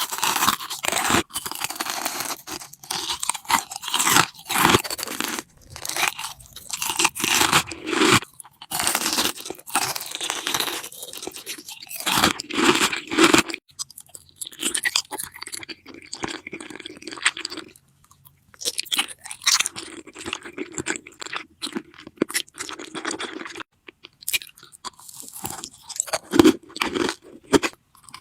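Close-miked eating: crunchy food being bitten and chewed in repeated bouts of crackling crunches, with short pauses between bouts.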